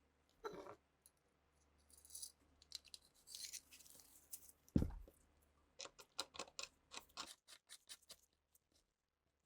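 Small metal pistol parts being handled and worked by hand: scattered clicks, scrapes and light taps. There is one heavier knock about five seconds in and a quick run of clicks soon after.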